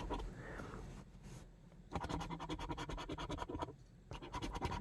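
A scratch-off lottery ticket being scratched in quick repeated strokes, in two runs with a short pause just after the middle.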